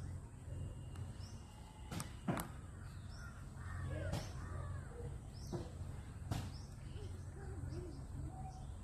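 Birds calling in short curved calls, with a few sharp clicks in between, the loudest about two seconds in, over a steady low hum.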